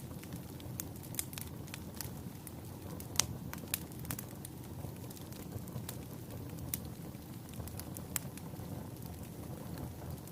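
Wood fire burning in a fireplace: a steady low rumble of flames with scattered sharp crackles and pops, the loudest about three seconds in.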